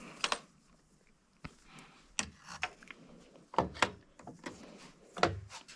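Hand tools clicking and clinking against metal bolts while fitting a wrench onto a motorcycle's engine mount bolts: a scatter of short, irregular clicks and knocks, a few heavier ones in the second half.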